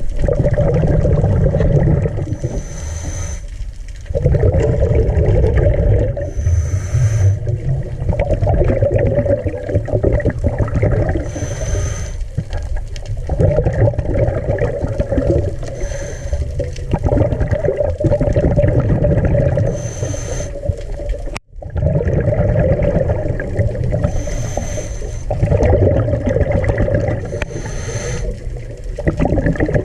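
Underwater sound of a diver breathing through a scuba regulator: a short hiss recurs about every four seconds over a steady low rumble of bubbles and water.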